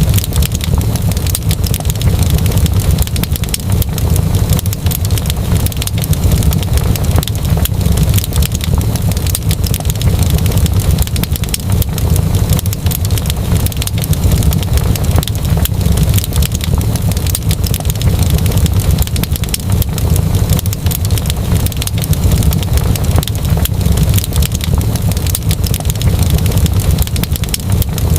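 Fireplace fire crackling with dense, constant small pops over a steady low rumble.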